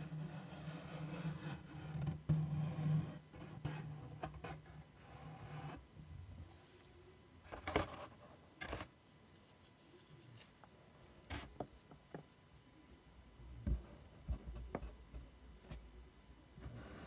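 ASMR scratching and rubbing on a surface for about the first six seconds, then a string of separate sharp taps and clicks.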